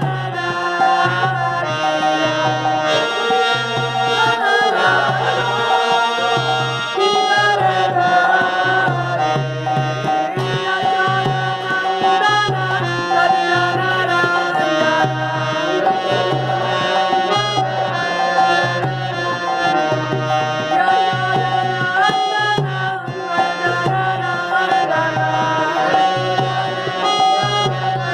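Devotional music: a harmonium holding sustained chords over a hand drum keeping a steady beat.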